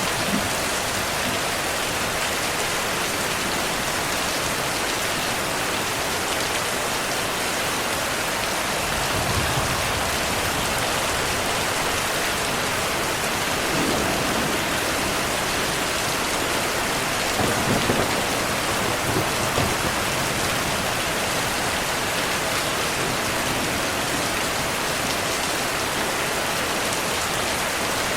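Heavy rain falling steadily, with soft low rumbles of thunder swelling a few times, about a third of the way in, near the middle and around two-thirds through.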